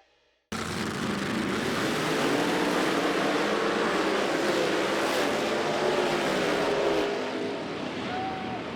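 Drag-racing mail truck's engine at full throttle making a pass down the strip. It starts suddenly about half a second in, its pitch rises and falls, and it eases off after about seven seconds.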